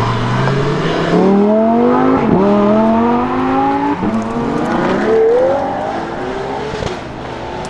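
Lamborghini Huracán STO's naturally aspirated V10 accelerating hard, its pitch climbing through the revs with two quick upshifts about two and four seconds in. It pulls up once more, then the sound fades near the end.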